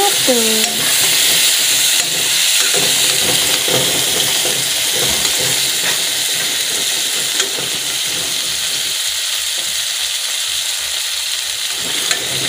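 Chicken, onion and tomato frying in hot oil in a metal kadai, sizzling steadily while a metal ladle stirs and scrapes through it.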